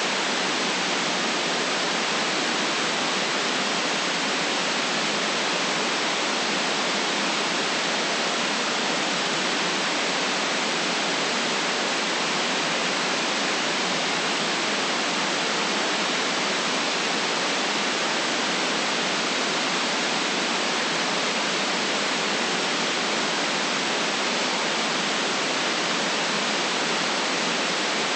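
Steady white noise: an even, unchanging hiss with no deep rumble in it and no traffic or other events breaking it.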